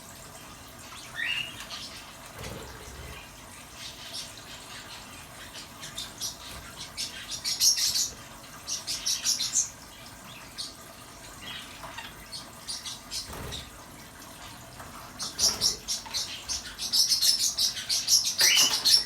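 Small pet birds chirping in quick, high-pitched bursts, busiest and loudest near the end, over a steady faint hiss of water from a battery-operated bird shower.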